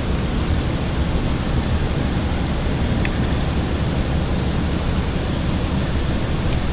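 Steady running noise inside the carriage of a Class 165 diesel multiple unit moving along the line: an even low rumble with no changes.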